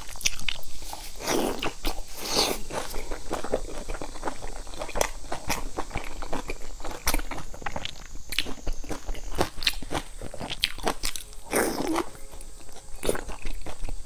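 Close-miked chewing and biting of a soft steamed dumpling: a dense run of wet mouth clicks and smacks, with a few longer, louder wet sounds about two seconds in and again near the end.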